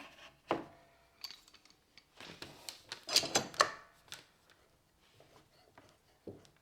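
Woodworking clamps being fitted and tightened on a glue-up: a knock about half a second in, a run of sharp rattling clicks between about two and four seconds in, and one more knock near the end.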